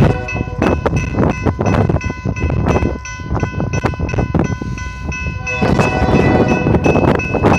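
A freight train passing on the rails, heard as several steady high ringing tones, under heavy wind buffeting on the tablet's microphone that rises and falls and is loudest in the last couple of seconds.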